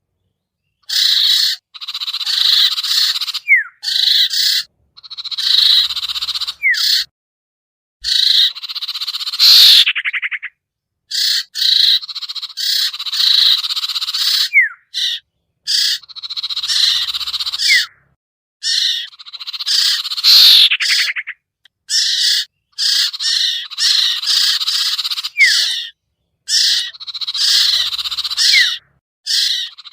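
Looped bird-lure recording of sertu (sirtu) calls: bursts of high, rapid chattering and chirps with short falling whistles, broken by brief silent gaps. The sequence repeats about every eleven seconds.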